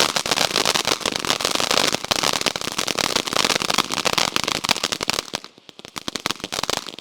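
A ground firework fountain crackling densely, a rapid string of sharp pops. About five seconds in, the crackling thins to scattered pops as the fountain dies down.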